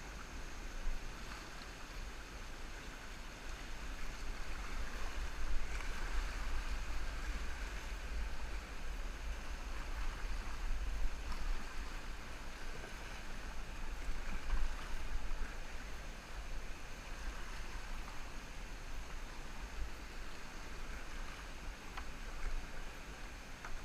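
Rushing river water, heard muffled through a helmet camera's waterproof case. It comes as a steady hiss that swells and eases, over a low rumble.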